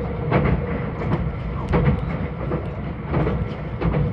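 Meitetsu 2000 series μSKY electric train running, heard from inside the car: a steady low rumble with a steady hum, and irregular clicks of the wheels over rail joints.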